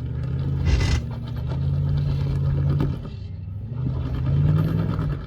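Off-road Nissan Patrol's engine revving in two long pushes, rising and easing off, as it works over a rough obstacle, with a brief clatter about a second in.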